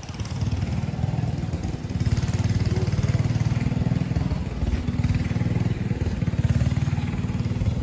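A vehicle engine running steadily at low revs with an even pulse of firing strokes, getting louder about two seconds in.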